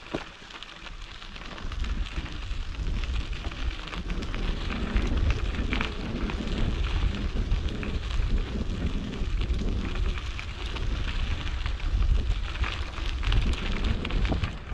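Wind buffeting the microphone, heard as a heavy rumble, over the crackle and crunch of mountain-bike tyres rolling on a gravel dirt road; it gets louder about two seconds in as the ride picks up.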